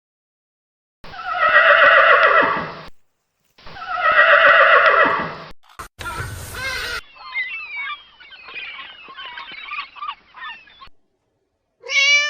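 Animal calls: two long wavering calls of about two seconds each, then a short noisy burst and a run of quick chirping calls, with another short call beginning near the end.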